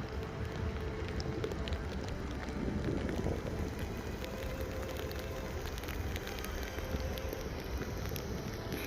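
Steady rain falling, with many small drop ticks over a low wind rumble.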